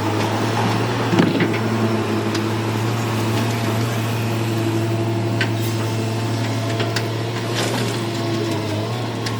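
Hyundai 210W wheeled excavator's diesel engine running steadily, with a few sharp clicks and knocks from the machine working.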